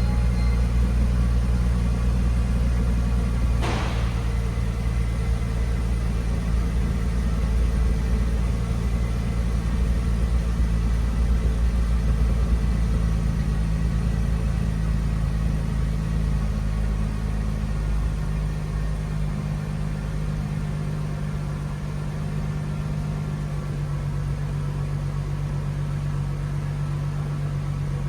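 2006 Mercedes-Benz SLK280's 3.0-litre V6 idling steadily after a cold start, getting a little quieter about two thirds of the way through. There is one brief sharp click about four seconds in.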